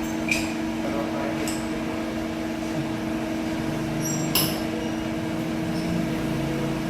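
CNC lathe running with a steady two-tone hum, with a few short sharp clicks over it, the loudest about four and a half seconds in.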